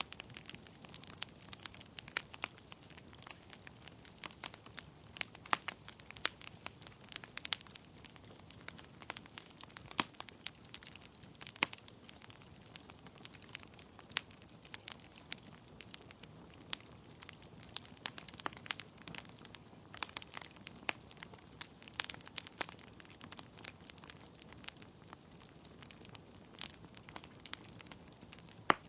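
Wood fire burning in a fireplace: logs crackling with many irregular sharp pops and snaps over a soft steady hiss of the flames, with one louder pop near the end.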